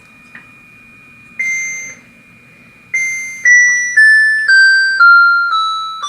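Electronic control-panel beeps from a cool-mist ultrasonic humidifier as its mist-level button is pressed: one beep, then a run of beeps about two a second, each a step lower in pitch as the mist setting is turned down from high.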